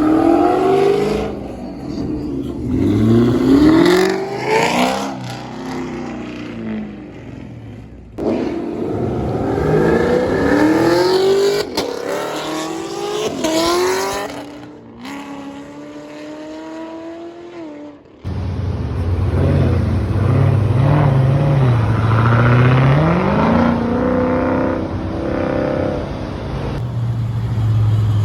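Performance car engines revving and accelerating hard, several pulls one after another, each rising in pitch. The sound changes abruptly twice, about eight and about eighteen seconds in.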